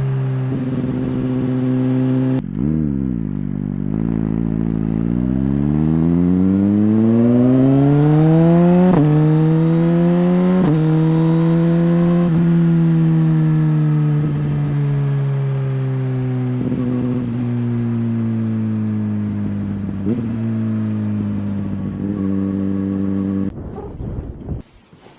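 Suzuki GSX-R1000R's inline-four engine pulling hard through the gears, its pitch climbing with quick drops at each upshift, then easing off with a slowly falling pitch and a few brief blips. The sound cuts off sharply near the end.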